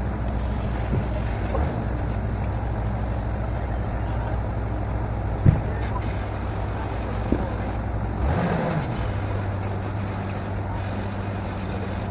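A borewell drilling rig's engine running steadily, with two short knocks around the middle; about eight seconds in, the engine's tone shifts to a new steady note.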